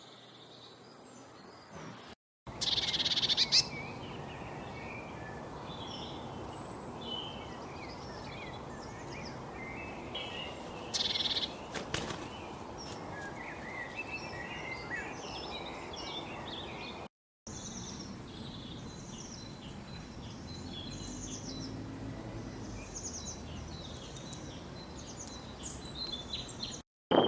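Several songbirds chirping and trilling in quick, overlapping short calls, over a steady background hiss. The sound drops out completely for a moment twice, like cuts between recordings.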